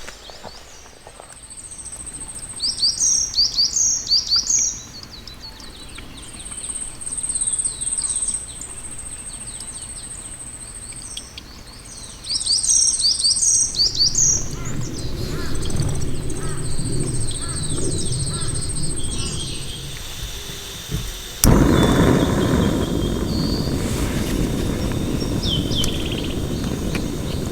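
Small birds chirping in quick clusters twice in the first half, with a thin high steady tone coming and going. About three-quarters of the way through, a louder steady rushing noise sets in suddenly and takes over.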